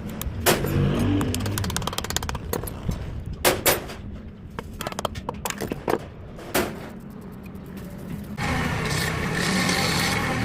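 A series of sharp metallic clicks and knocks from hands-on work on the generator's parts. About eight seconds in, a loud steady machine noise starts and keeps going.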